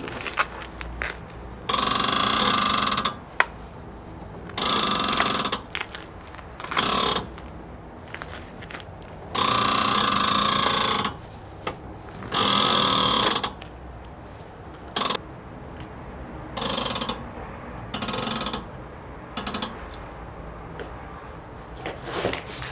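Worn strut tower bearings grinding and creaking in repeated bursts of up to about two seconds as the front suspension is turned: the bearings are shot.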